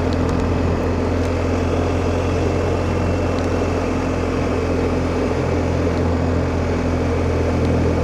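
BMW R1250GS boxer-twin engine running at a steady cruise with no change in pitch, heard from inside the rider's helmet under a steady rush of wind noise.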